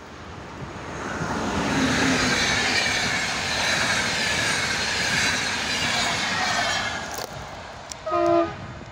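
Electric-locomotive-hauled Intercity passenger train (locomotive X4E-625) passing at speed, the rush of wheels and coaches swelling and then fading as it draws away. Near the end comes a short, loud horn blast, the Rp1 warning signal.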